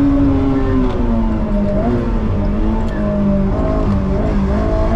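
Honda S2000's four-cylinder VTEC engine heard from inside the cabin. Its note drops and wavers as the car brakes from about 104 to 50 km/h, then climbs again near the end as it pulls away.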